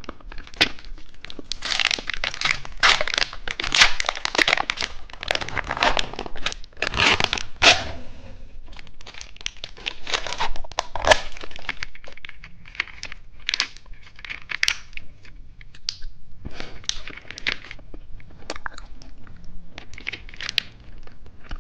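Plastic candy packaging being torn open and crinkled by hand: dense rustling and tearing for about the first eight seconds, then sparser crinkles and small crackles.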